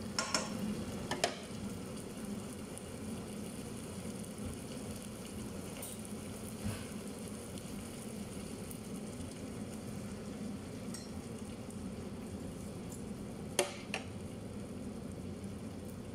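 Liver frying in a pan on a gas stove, a steady sizzle, with a glass pan lid clinking against the pan a few times in the first second or so and two sharp knocks near the end.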